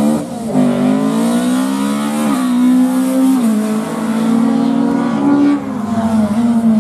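Rally car engine running hard at high revs, its pitch climbing and then stepping down several times as it changes gear.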